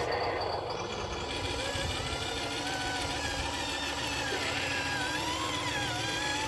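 Diesel truck engine running at idle, with faint voices in the background.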